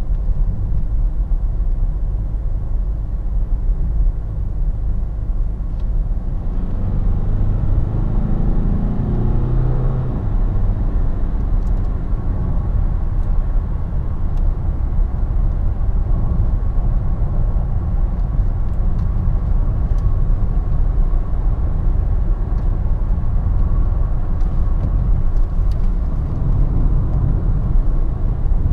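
Cabin sound of a DS7 Crossback's 2.0 BlueHDi 180 four-cylinder turbodiesel pulling the car up to about 90 km/h, its note rising for a few seconds, then settling into steady cruising with a low tyre and road rumble.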